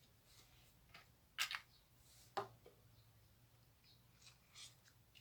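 A few light clicks and taps from small craft pieces being handled and set down on a work table, the two sharpest about a second apart, with faint rustling between them.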